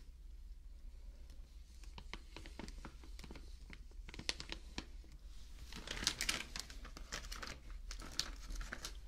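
Crinkly plastic sandwich wrapper being handled close to the microphone: scattered sharp crackles that grow denser and louder about six seconds in.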